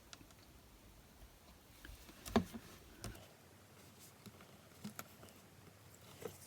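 A few faint taps and one sharper click, about two and a half seconds in, from small paper pieces and tools being handled on a craft desk while die-cut card pieces are stuck down.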